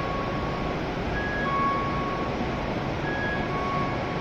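Steady running noise of a W7 series Shinkansen standing at the platform, with short high electronic tones at a few different pitches sounding now and then.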